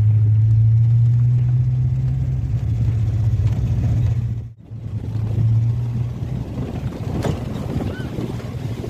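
A steady low motor drone that breaks off sharply for a moment about halfway through, then resumes.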